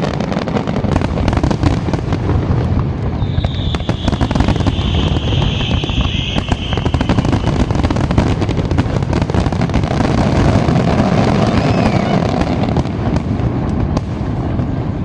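Fireworks display going off: a dense run of rapid bangs and crackles over a deep rumble, with a high hissing whistle from about three to seven seconds in.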